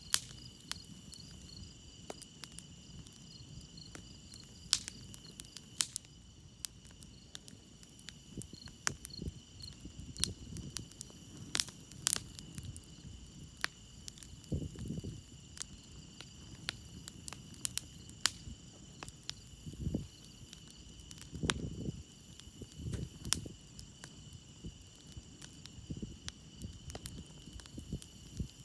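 Campfire crackling, with sharp pops scattered throughout, over a steady chorus of crickets; one cricket chirps in a quick pulse through the first third. A few soft low puffs come in the second half.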